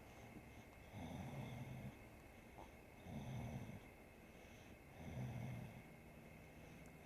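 Bulldog snoring in its sleep: three slow snores of about a second each, roughly two seconds apart.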